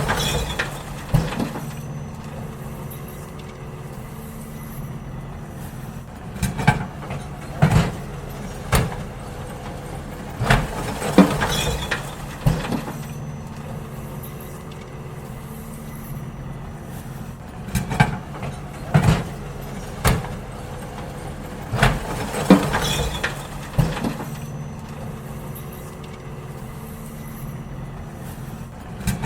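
Garbage truck running steadily while emptying bins: clusters of loud clunks and bangs as the bins are tipped, coming every few seconds over the steady engine hum.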